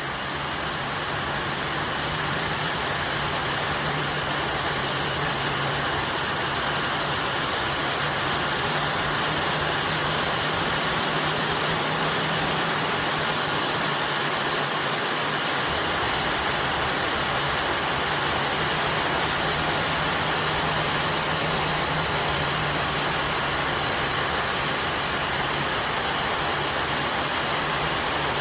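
WANTIFO hair dryer with a high-speed brushless motor running steadily: an even, loud rush of blown air with a faint low hum beneath it.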